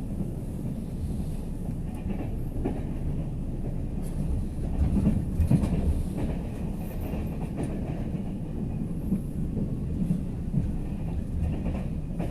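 Express train running at speed, heard from inside the passenger carriage: a steady low rumble of wheels on rail, with a few sharp clicks and a louder passage about halfway through.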